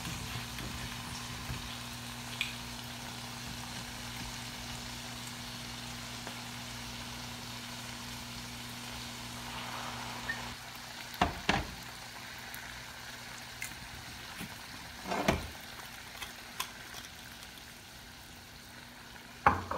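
Arctic surf clams frying in butter in a small saucepan, a steady sizzle. About halfway, Chinese rice liquor is poured into the pan and a low hum stops; a few short knocks follow.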